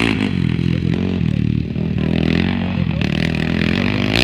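Motocross motorcycle engines running, their pitch wavering a little with the throttle.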